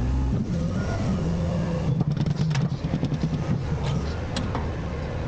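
Garbage truck's diesel engine running revved up to drive the hydraulics while a bin is dumped. A run of clattering knocks comes in the middle as the trash drops into the hopper.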